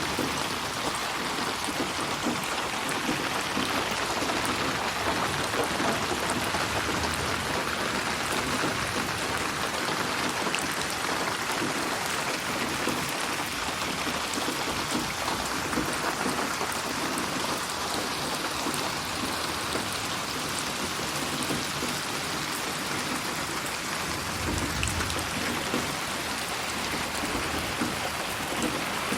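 Steady rain falling with a continuous hiss and patter, mixed as 8D audio that pans around the listener. Near the end a brief low rumble sits under the rain.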